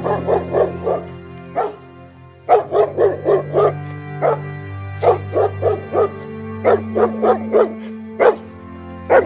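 A dog barking in quick runs of short, sharp barks, about four or five in a row, with single barks between the runs. Steady background music plays underneath.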